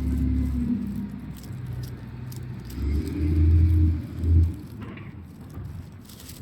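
Heavy diesel truck engine running, its note shifting up and down, with two loud surges past the middle before it settles lower.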